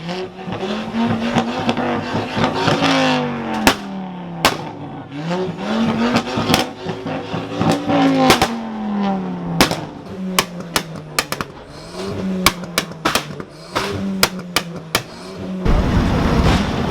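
Car engine being revved again and again, its pitch climbing and falling, with many sharp cracks and bangs scattered through it. Near the end a loud rushing noise comes in.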